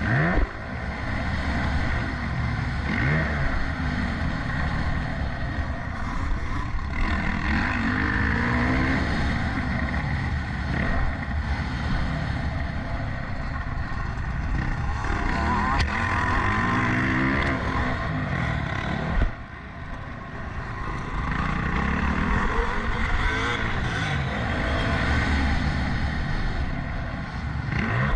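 Motocross bike engine racing, its note rising and falling over and over as it revs up and backs off, with a short drop in loudness about two-thirds of the way through.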